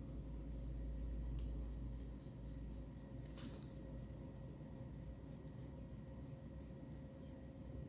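Faint scratchy rubbing from hands stroking and kneading a cat's fur, a run of short strokes with a slightly sharper scratch about three and a half seconds in.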